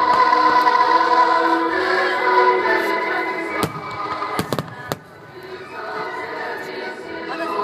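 Music with long held notes, joined about halfway through by a few sharp firework bangs, one alone and then a quick cluster; the music dips briefly after the bangs and comes back.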